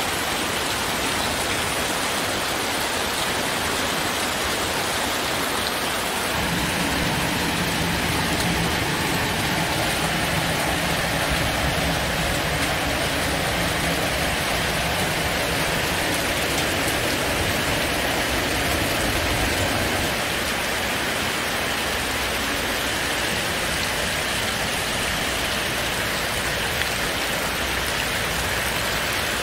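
Heavy rain pouring steadily in a summer storm. A deeper low rumble is added for roughly the middle half.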